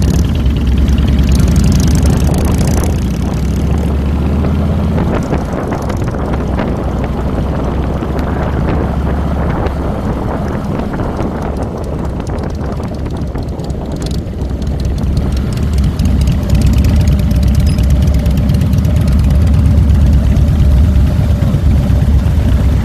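Harley-Davidson Fat Boy's air-cooled V-twin engine running while riding, heard from a handlebar mount. It eases off in the middle and grows louder again through the last third.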